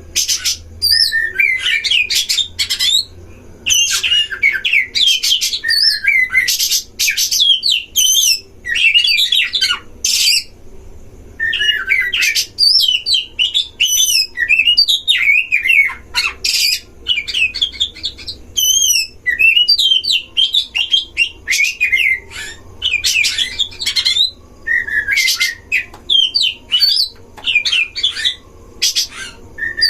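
Oriental magpie-robins (kacer) singing in a duel: fast, varied whistled phrases that glide up and down, broken by short harsh rasping notes, with almost no pause.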